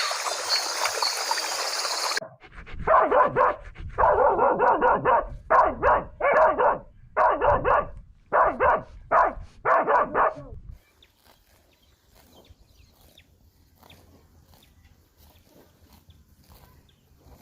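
Dog barking in a series of about ten barks with uneven gaps, some short and some drawn out, stopping about eleven seconds in.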